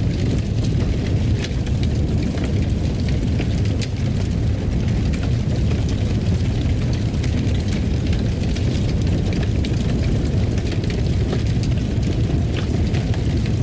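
Fire burning in a fireplace: a steady low rumble with frequent small crackles and pops.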